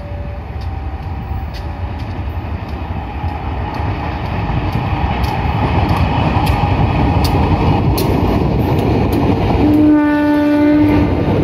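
Diesel-electric locomotive hauling a passenger train, approaching and passing, its engine rumble growing louder while the wheels click regularly over rail joints. Near the end the locomotive sounds its horn once for about a second and a half.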